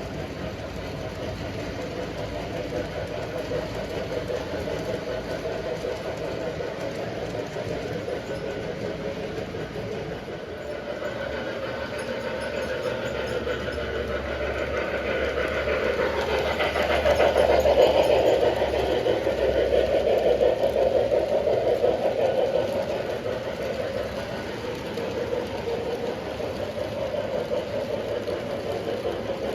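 Model train running on the track, a steady electric-motor hum with wheel rattle. It grows louder as the train comes close, peaks a little past the middle, then fades as it moves away.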